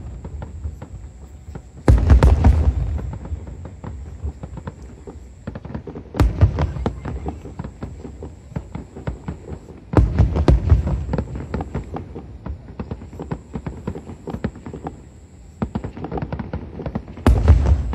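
Aerial firework shells bursting in the distance: four heavy booms with a long rumbling tail, about 2, 6, 10 and 17 seconds in, and constant crackling and popping of stars between them. A faint steady high tone runs underneath.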